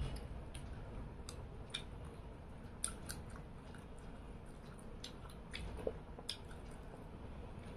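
A person chewing tengra fish with rice by hand. There are faint wet mouth smacks and small clicks at irregular moments.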